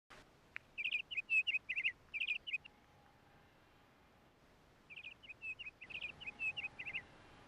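A songbird singing two phrases of quick, high chirping notes, about a second in and again about five seconds in, each lasting around two seconds.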